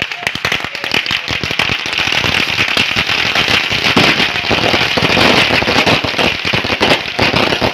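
Fireworks crackling: a dense, rapid run of small bangs and crackles, with no let-up.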